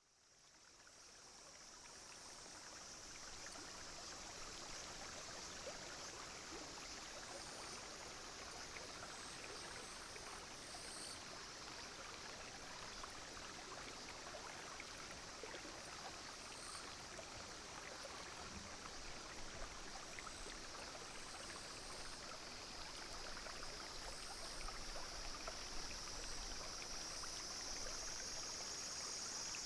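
A small clear stream flowing and trickling steadily over stones, fading in over the first couple of seconds. Above it, cicadas and other insects keep up a steady high-pitched drone with faint chirps, growing louder in the last few seconds.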